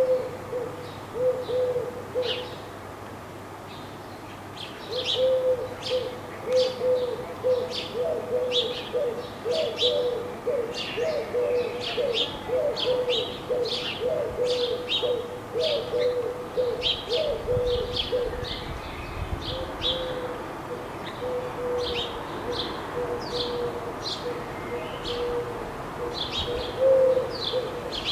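Eurasian collared dove cooing over and over in low, repeated phrases, with small songbirds chirping rapidly and high above it.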